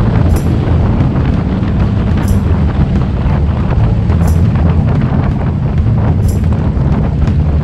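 Harley-Davidson V-twin motorcycle engine running steadily under way, with heavy wind rush on the microphone.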